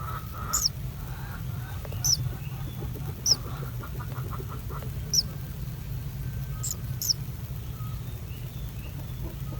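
A small bird giving short, sharp, high chirps that drop in pitch, six in all and spaced a second or two apart, over a steady low hum.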